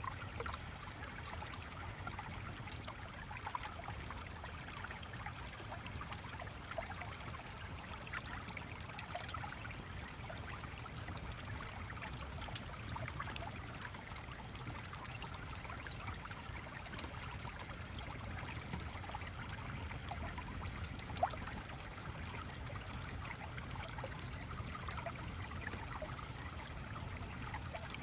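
A steadily trickling, babbling stream with a low, even rumble beneath it. A single short click comes about three-quarters of the way through.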